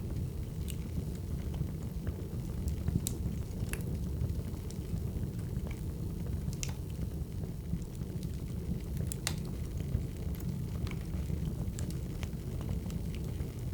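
Firewood burning: a steady low rumble of flames with sharp, irregular crackles and pops.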